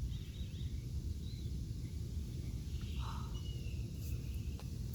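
Outdoor ambience: a steady low rumble, like wind or handling on the microphone, with a few faint short bird chirps.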